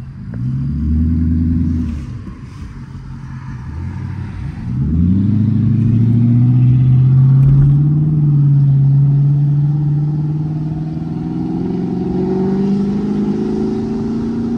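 Car engine heard from inside the cabin (a Chrysler 300 sedan): a short burst of revs about half a second in, then hard acceleration from about five seconds in, the engine note climbing slowly and steadily.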